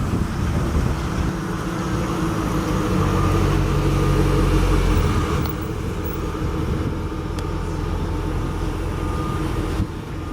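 A car engine running close by, a steady low hum that grows a little louder, then drops in level about five seconds in.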